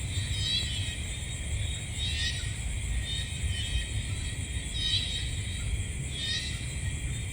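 Night insect chorus, crickets or katydids: a steady high-pitched drone with a chirping phrase repeating about every second and a half, over a low rumble.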